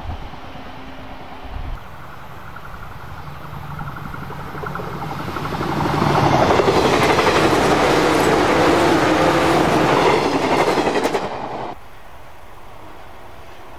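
A 485 series limited express electric train approaching and passing close at speed: a rising hum, then a loud rapid clatter of wheels over the rail joints as it goes by, cut off abruptly near the end.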